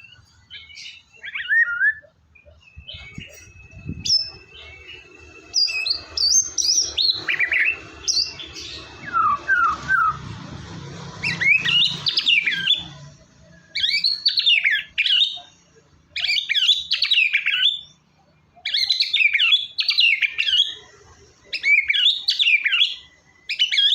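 White-rumped shama singing: quick, varied whistled and chattering phrases. They are loosely spaced at first, then come as phrases about a second long with short pauses between them.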